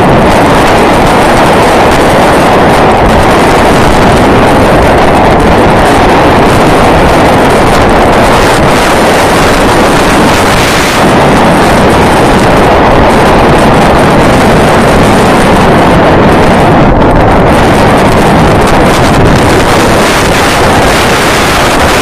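Loud, steady wind rushing over the microphone of a camera moving along on a bicycle.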